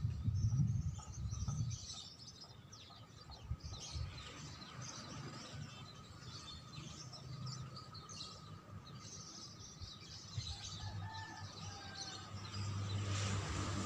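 Faint, busy twittering of songbirds, many short high chirps and trills following one another. It is a bird-song track for prompting a caged white-rumped shama to sing. A low hum comes in near the end.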